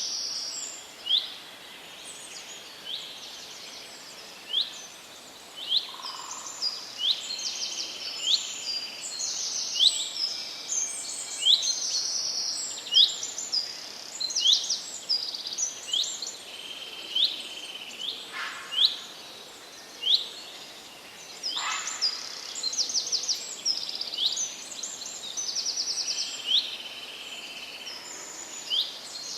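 Songbirds calling and singing, several voices at once: frequent short, high chirps and quick trills, over a soft steady background hiss.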